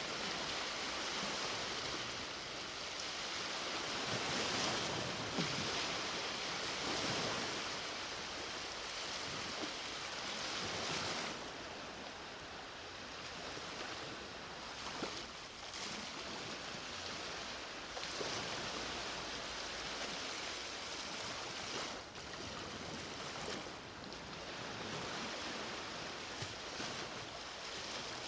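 Sea waves breaking and washing up a beach, a steady rushing surf that swells and eases every few seconds.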